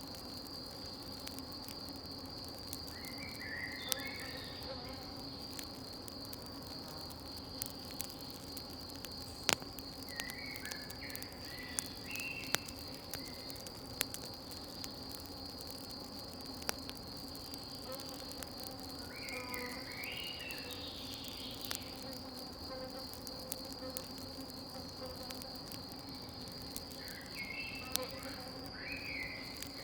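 Crickets chirring steadily and high, with scattered sharp pops from a crackling campfire. A bird gives a short chirping phrase four times.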